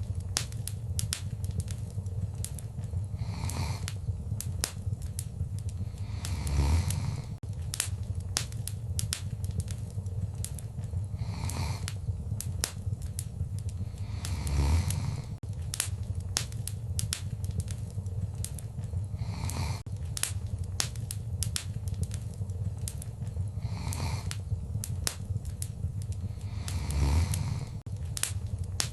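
Wood fire crackling, with frequent sharp pops and snaps over a steady low rumble of the flames. Three louder swells with a low thump come about a quarter of the way in, halfway and near the end.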